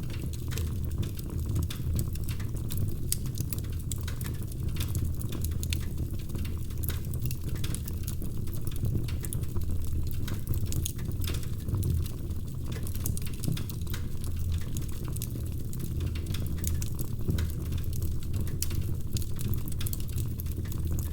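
Wood fire crackling, with frequent small irregular pops and snaps over a steady low rumble.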